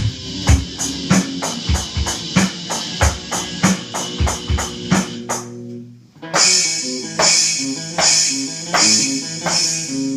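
Drum kit and guitar playing together: a fast, busy drum pattern for about five seconds, a brief drop-out, then heavy cymbal-accented hits roughly one every second over ringing guitar chords.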